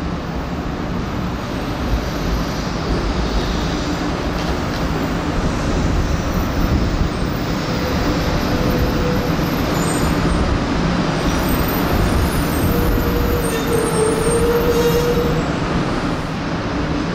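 500 Series Shinkansen train moving slowly along the platform: a steady rumble of wheels and running gear, with a faint whine showing briefly twice.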